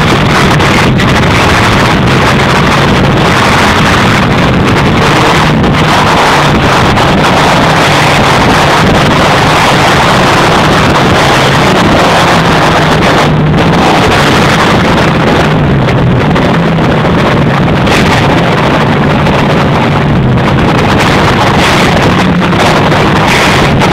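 Tuned 301 bhp Ford Focus ST's engine and exhaust running, picked up by an overloaded, wind-buffeted microphone: a loud, distorted, steady noise with only a faint engine note beneath it.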